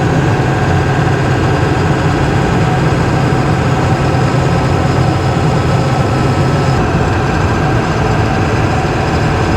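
Steady drone inside the cab of a 2000 Ford F350 cruising at about 65 mph: the 7.3 Power Stroke V8 turbo-diesel running under light load, with tyre and road noise.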